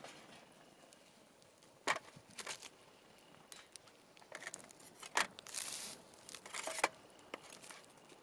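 Intermittent crinkling and tearing of something dry being handled, in short irregular bursts, with a sharp snap about two seconds in.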